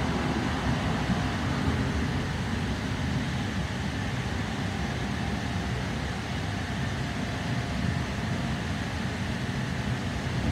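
Sydney Trains K-set double-deck electric train running, heard inside the carriage: a steady low rumble of wheels and running gear with a faint steady whine above it.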